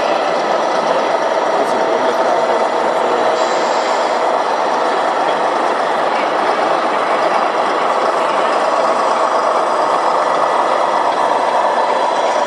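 Steady mechanical whirring and rattling from 1:14 scale radio-controlled model trucks, their motors and gearboxes running.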